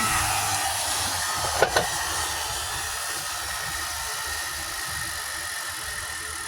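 Steady hissing rush of a running machine, slowly getting quieter, with two sharp knocks about one and a half seconds in.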